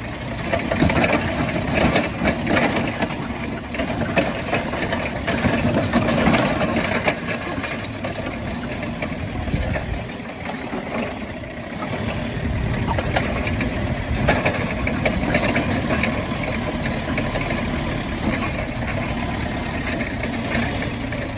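Truck engine running, with a steady drone that swells and eases in loudness.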